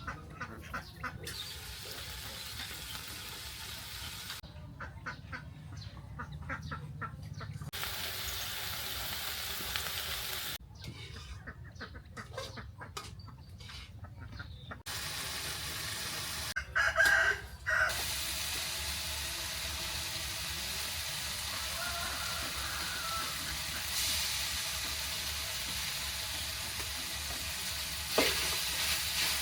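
Chickens clucking, with a rooster crowing once near the middle, over a steady background hiss.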